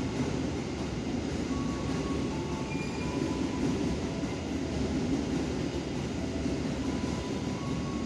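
A train running past, a steady rumble of wheels and running gear, with faint short high tones coming and going above it.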